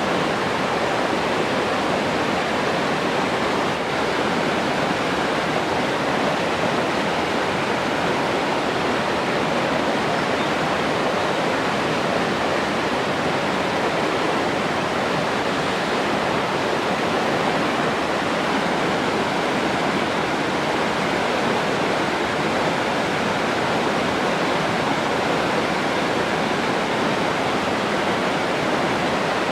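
Rushing water, like a waterfall or fast stream: a steady, even hiss that does not change.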